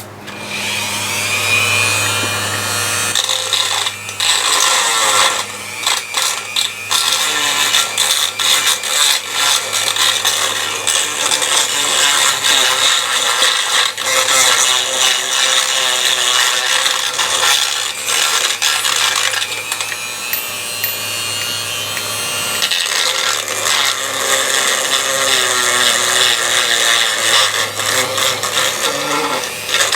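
Electric drill boring out a stripped bolt hole in a metal oil filter housing with a 10.5 mm bit, to take a thread-repair coil. The drill whines up to speed at the start, then cuts with a grinding sound, pausing and changing speed briefly several times.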